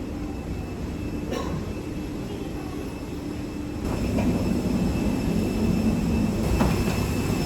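A vehicle's steady low rumble, getting louder about four seconds in, with a faint high whine held steady above it.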